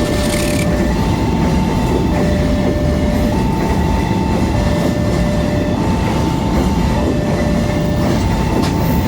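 A level crossing's electronic warning alarm alternates between a lower and a higher tone, each held a little over a second. It sounds over the steady rumble of a train passing through the crossing.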